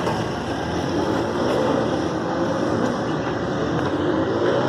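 Motorcycle engines running, with the engine note rising and falling.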